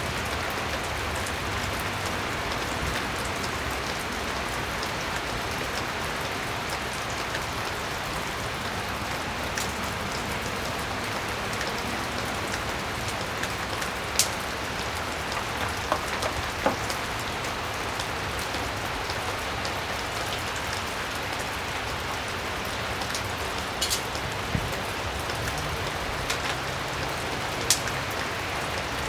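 Steady rain falling, with a few short, sharp clicks scattered through it.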